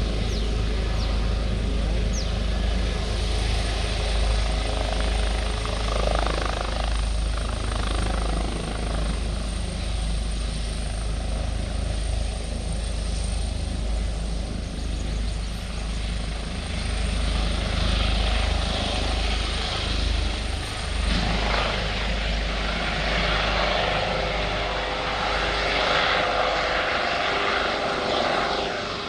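Helicopter flying by, its rotor and engine heard as a loud, steady rumble throughout.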